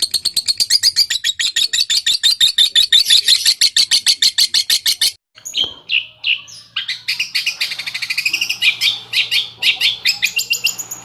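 Lovebird calling: a fast, even run of sharp high notes, about eight a second, for about five seconds. It cuts off abruptly, and after a brief gap comes more varied rapid chirping. This is a lure recording of the 'ngetik' and 'ngekek' chatter meant to set other lovebirds singing.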